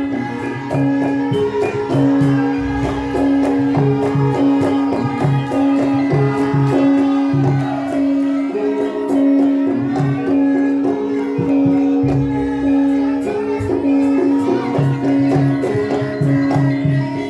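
Traditional Javanese gamelan music of the kind that accompanies a lengger dance: a sustained metallic note with other pitched tones over a steady pattern of sharp percussive strikes.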